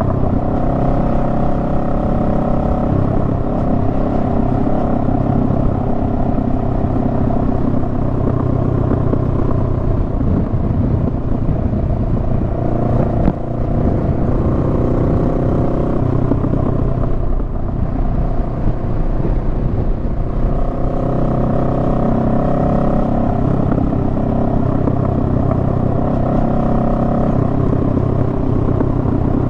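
Honda Rebel 500's parallel-twin engine running under way on the motorcycle, its note rising and falling as the throttle opens and closes. There is a single short knock about 13 seconds in.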